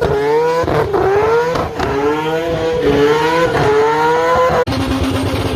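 Mazda rotary engine revving hard in repeated rising sweeps, each climbing in pitch and then dropping back. About four and a half seconds in there is an abrupt cut to a steadier, lower-pitched engine note.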